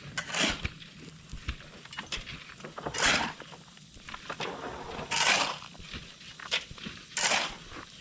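Shovel scooping and tossing gravel, a gritty scrape about every two seconds, as excess gravel is shovelled out of the slab forms.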